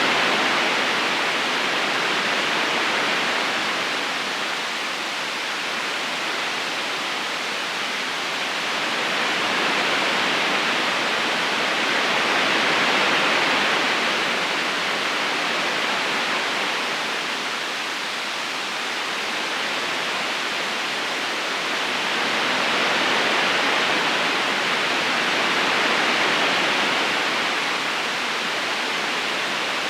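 Flowing river water rushing steadily as an even hiss, slowly swelling and easing about every ten seconds.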